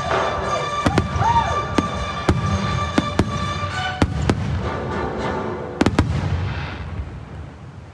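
Aerial fireworks shells bursting overhead: about a dozen sharp bangs, some in quick pairs, through the first six seconds.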